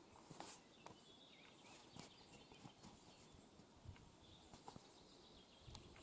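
Near silence: faint outdoor ambience with a few distant bird chirps and scattered soft clicks.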